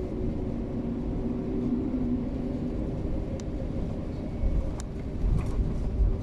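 Airbus A330 cabin on the ground before takeoff: a steady engine hum over a low rumble, with a few sharp rattles and clicks and some low bumps in the second half.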